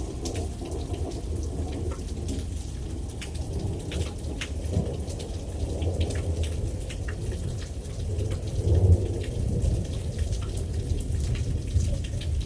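Thunderstorm: steady rain with many sharp clicks of drops striking close by, over a low rumble of thunder that swells to its loudest about nine seconds in.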